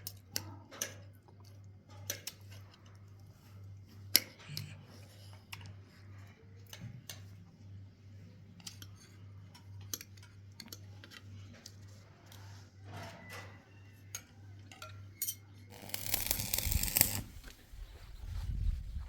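Scattered light metallic clicks and taps of tools and parts being handled during plumbing work, over a steady low hum, with a short loud rush of noise about sixteen seconds in.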